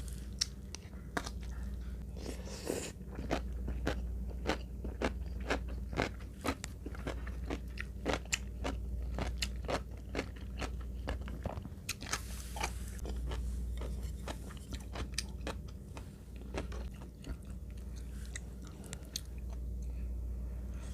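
Close-miked chewing and crunching of crunchy food, with a run of sharp crunches about one or two a second.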